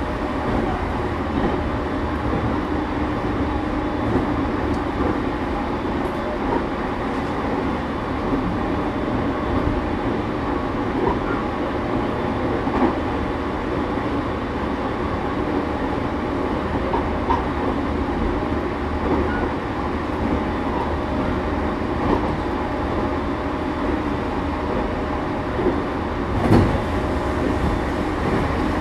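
Interior running noise of a JR East E231 series suburban motor car (Hitachi IGBT-VVVF) travelling at speed: a steady rumble of wheels on rail with scattered light clicks, and one louder knock near the end.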